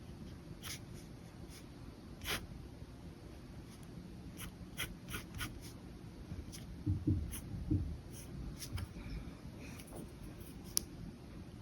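Pen scratching on paper in short, separate strokes, with a few soft low bumps a little past the middle.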